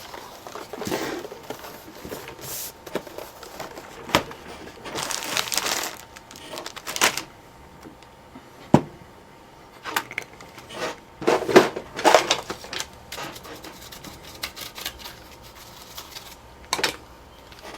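Plastic clicks, knocks and scraping as laptop parts are handled and fitted back together, with a CD drive being slid into a Sony Vaio laptop. The sounds come in irregular short bursts, the busiest a few seconds in and again around the middle.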